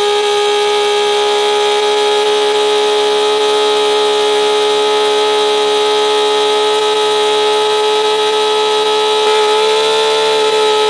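Miniature model V-engine running at high, steady revs with a high-pitched buzz. Its pitch lifts slightly about nine seconds in, then settles back.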